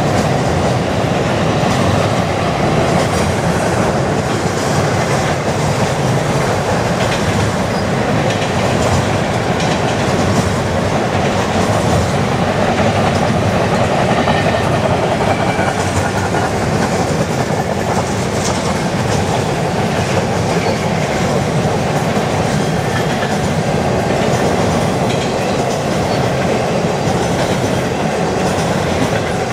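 Double-stack intermodal container cars of a freight train rolling past: a steady noise of steel wheels on the rails with scattered clicks.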